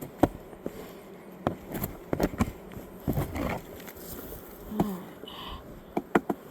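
Honeybees buzzing around an open hive, with scattered sharp clicks and knocks from work on the hive's frames.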